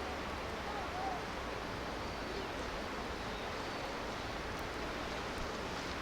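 Steady rushing of a flowing river, with a few faint short chirps about a second in.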